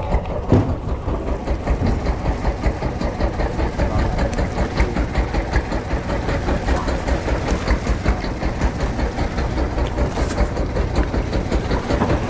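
Marine diesel engine running steadily: a low rumble with a fast, even throb.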